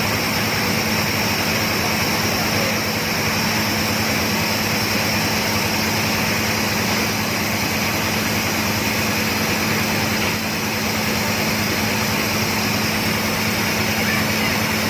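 Engine of a large water-well drilling rig running steadily, a constant hum with an even hiss over it.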